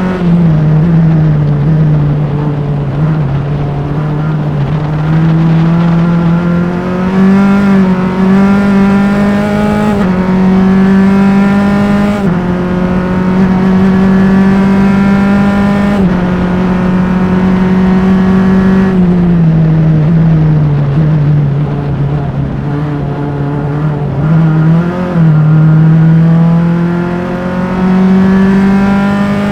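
A Formula Enterprises single-seater race car's engine, heard close up, runs at high revs under load through a lap. Its note climbs and steps through gear changes, drops twice as the car slows for corners, and picks up again.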